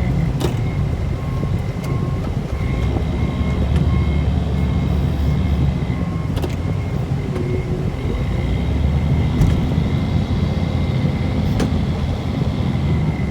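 Engine of a snow-plowing vehicle running steadily, a low rumble heard from the cab, with a thin high whine and a few light clicks.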